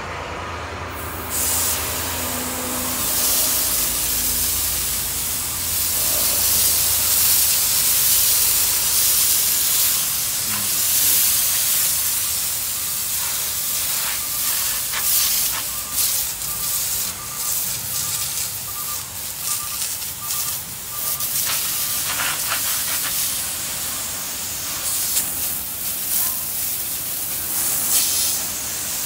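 Water jet spraying truck tyres to wash off landfill muck, starting about a second in and running on unevenly. An engine runs low underneath for the first several seconds.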